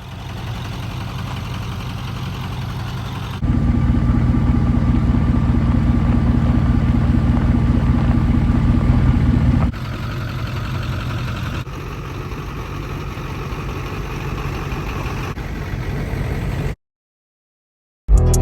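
Diesel truck engines idling with a steady low pulse, in several short cuts one after another; the loudest stretch runs from about three to ten seconds in. The sound stops abruptly about a second and a half before the end.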